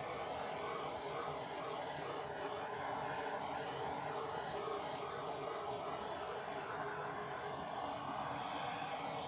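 A steady whirring drone, even in level throughout, with no speech or sudden sounds.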